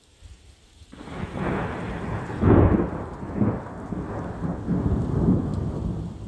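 A rumble of thunder that breaks suddenly about a second in, swells several times and dies away near the end.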